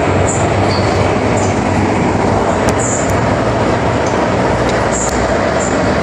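MTR Island Line train running between stations, heard from inside the car: a steady rumble of wheels and traction motors on the track, with short faint high squeaks now and then.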